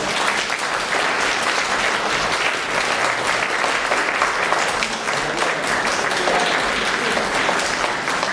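Audience in a hall applauding steadily: many hands clapping at once in a dense, even patter.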